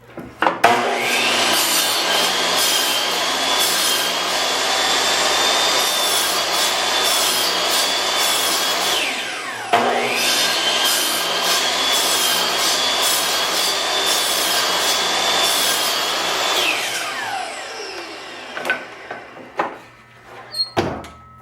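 DeWalt chop saw cutting wood twice. Each time the motor spins up to a high whine, runs steadily through the cut, and winds down with a falling pitch. The second start follows just under ten seconds in, and a few light knocks come near the end.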